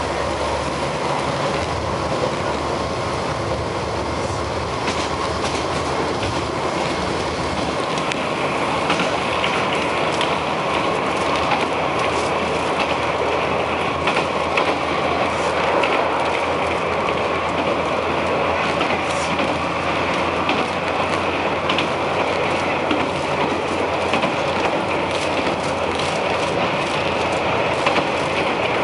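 Diesel railcar running steadily along single track: a continuous rumble of wheels on rail, with clicks of the wheels over rail joints coming more often after the first several seconds.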